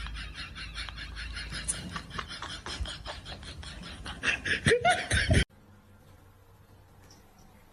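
Person laughing in quick repeated pulses, growing louder just before it cuts off abruptly about five and a half seconds in; faint background sound follows.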